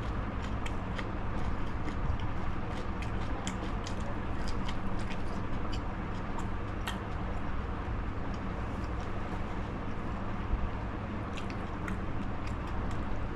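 A person biting and chewing fried iftar snacks close to the microphone, with scattered wet mouth clicks, thickest in the first half, over a steady low background hum.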